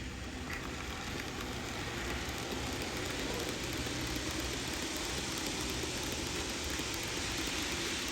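N-gauge model freight train running along the layout's track, a steady rolling noise of small wheels on rail that grows a little louder over the first couple of seconds.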